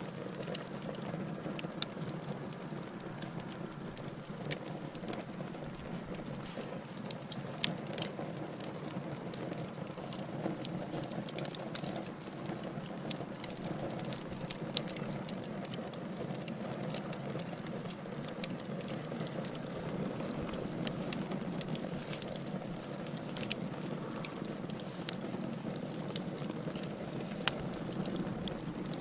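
Wood fire in a fireplace crackling, with irregular sharp pops and snaps over a steady low rush.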